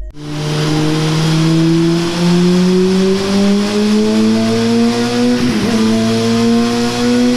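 Honda CBR600RR inline-four engine pulling under load, its pitch rising steadily, with a brief dip about five and a half seconds in, like a gear change.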